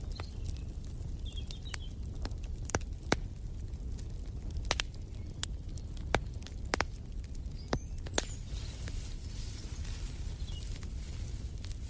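Wood fire crackling in a fireplace: irregular sharp snaps and pops over a low steady rumble of burning. Faint bird chirps come through a few times.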